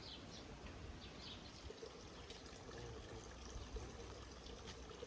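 Faint water pouring and trickling into a container as it is being filled.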